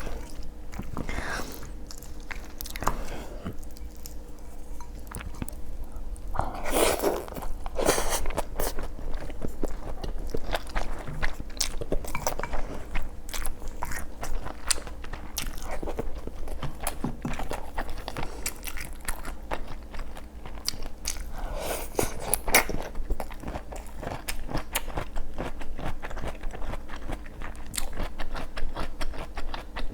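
A person eating close to the microphone: chewing and biting with a steady run of small crunches and clicks, and a couple of louder mouth sounds about seven and twenty-two seconds in.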